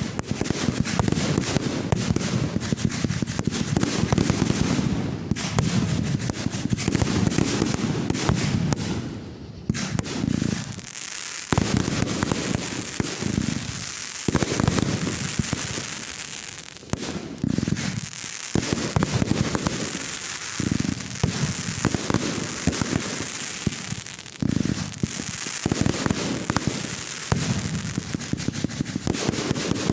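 Fireworks going off in quick succession: a dense, continuous mix of crackling and sharp bangs over deep booms, with a few short lulls.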